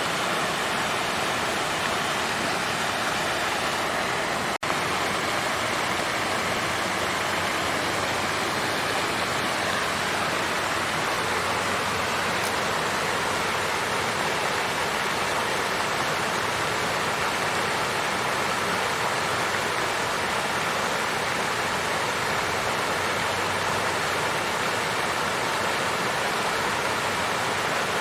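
Water fountain flowing steadily, an even rush of running water, broken once by a momentary dropout about four and a half seconds in.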